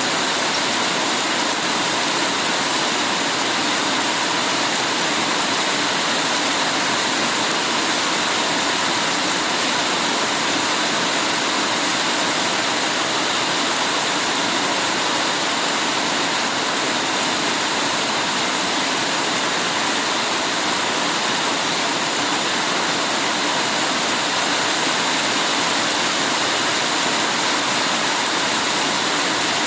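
Heavy rain falling steadily, a dense, even hiss that does not change in level.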